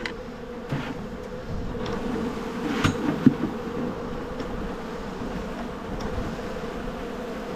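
Many honey bees flying and buzzing steadily in the air around a new hive box as they reorient to it. A couple of sharp knocks about three seconds in.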